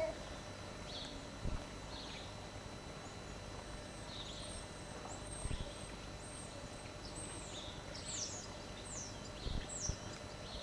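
Faint bird chirps in a garden: a few short high calls, then several quick falling whistles in the second half, over a steady background hiss. Three soft low thumps come about four seconds apart.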